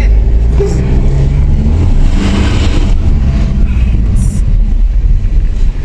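Car engine running loud and close with a deep rumble, its pitch shifting as it is revved.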